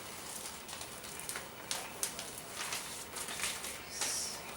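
Wrapping paper rustling and crinkling as it is handled and folded around a gift, with a few sharper crinkles.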